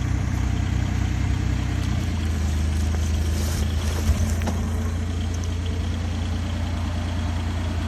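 Off-road vehicle's engine idling steadily, with one sharp knock about four seconds in.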